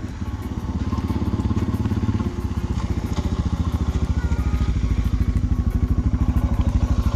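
Adventure motorcycle engine running at low speed as it rides up, with an even pulsing beat, getting gradually louder.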